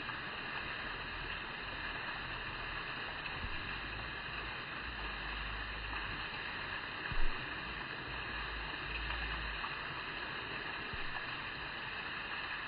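Steady outdoor background hiss with patches of low rumble, and a single sharp knock about seven seconds in.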